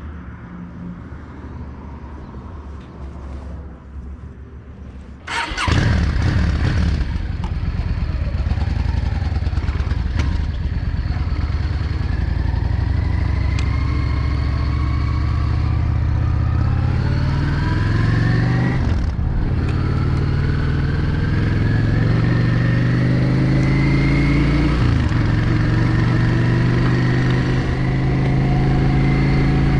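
Yamaha XVS 650 Drag Star's air-cooled V-twin, quiet at first, then suddenly much louder about five seconds in as the bike pulls away. It accelerates with the pitch rising through each gear, changes gear twice (about 19 and 25 seconds in), and then runs steadily.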